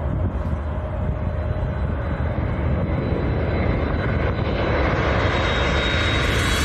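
Airliner on landing approach, its engine noise growing steadily louder as it nears, with a thin high whine, over wind rumbling on the microphone.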